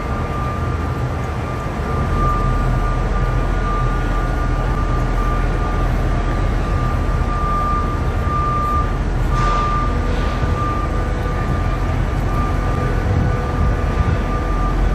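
Steady rumble of heavy machinery under a constant high whine, with a brief hiss about nine and a half seconds in.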